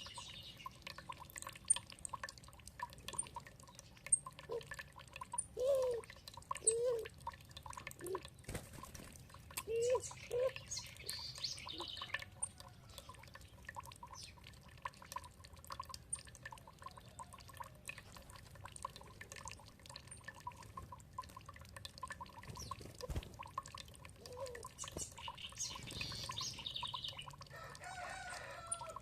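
Birds calling over faintly running water: several short low calls, with bursts of higher chirping about ten seconds in and again near the end.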